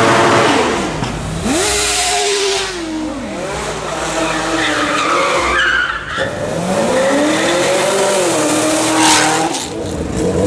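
Sport motorcycle engine revving up and down several times during a burnout, with the rear tyre squealing against the pavement.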